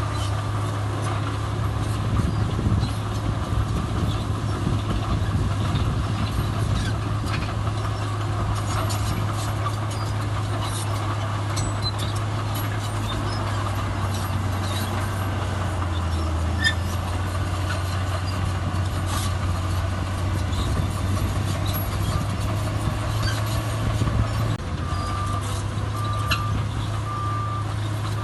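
Heavy diesel earthmoving machinery running steadily with a constant low drone. Near the end a reversing alarm starts beeping about once a second.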